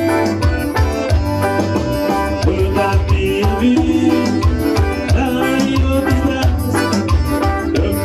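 Forró band playing, with a steady, driving drum beat under sustained melody notes.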